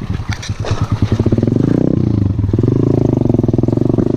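Coolster 125cc pit bike's single-cylinder four-stroke engine chugging at low revs, then revving up about a second and a half in and holding a steady higher note as the bike rides on.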